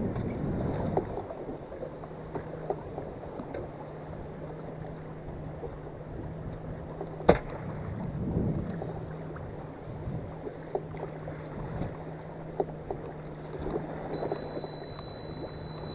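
Small fishing boat's engine running with a steady low hum under wind and water noise on the open sea. A single sharp knock about seven seconds in, and a high steady beep starting near the end.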